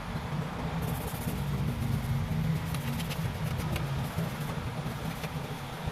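Steady low hum with scattered light clicks and taps, as small tools and parts are handled while the amplifier's volume and tone potentiometers are being replaced.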